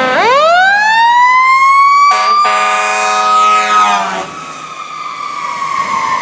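Siren winding up in pitch over about a second, then holding a steady wail. About two seconds in, a second horn-like tone sounds alongside it for about two seconds, and the wail then slowly falls.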